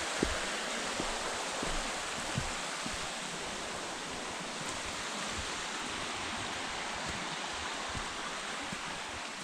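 Mountain stream rushing and splashing over rocks at a small waterfall, a steady rush that eases slightly toward the end, with a few soft low thumps.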